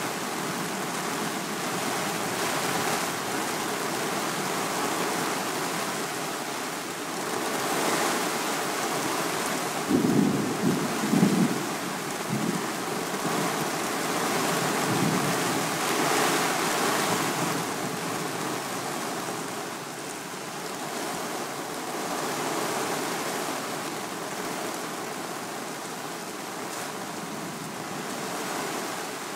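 Thunderstorm: steady heavy rain and gusting wind, swelling and easing, with a few loud low rumbles about ten to eleven seconds in.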